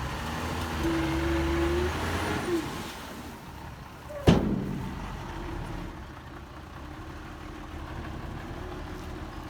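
Heavy diesel machinery engine running, louder with a steady whine for the first two seconds or so, then settling to a lower hum. About four seconds in comes one sharp, loud bang or clank.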